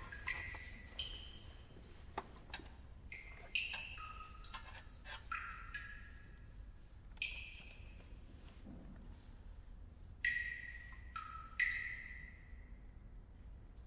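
Mallet percussion, like a glockenspiel or chimes, playing scattered high notes at irregular intervals, each struck sharply and ringing out.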